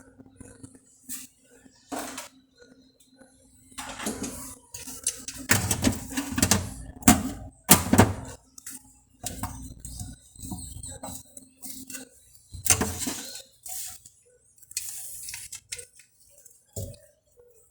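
Irregular clinks, knocks and clatter of hard objects being handled, busiest about six to eight seconds in, over a faint steady hum that stops about twelve seconds in.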